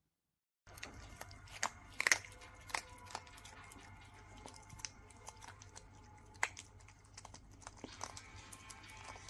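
Scattered quiet clicks and crunches over faint music and a low steady hum.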